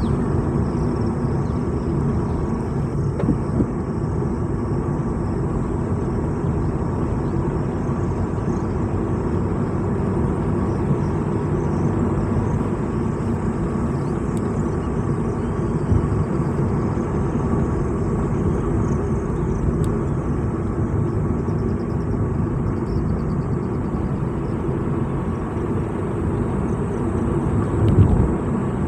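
Steady rumble of a vehicle driving along a road, its engine and tyre noise continuous, with a brief louder thump near the end.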